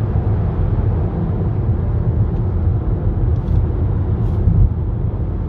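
Steady low rumble of a car's engine and tyres heard from inside the cabin while driving at road speed.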